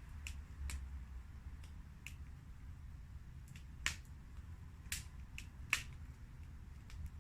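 Campfire crackling: irregular sharp pops and snaps, two louder ones about four and six seconds in, over a low steady rumble.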